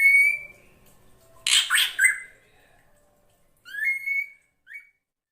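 Drongo (srigunting) calls, which the recording presents as a female's lure call: clear whistled notes that slide upward, with a harsh, raspy note about a second and a half in. Two more rising whistles follow, and it stops about five seconds in.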